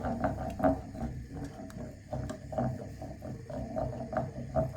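Thickened sauce bubbling at the boil in a pot, with irregular small pops and plops several times a second over a low rumble.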